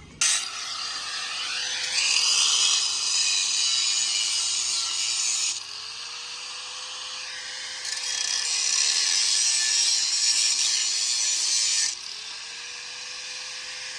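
Power tool cutting or grinding metal exhaust pipe, a harsh hiss over a motor whine. The cut bites hard twice for about four seconds each, and the motor pitch sags under load, then recovers.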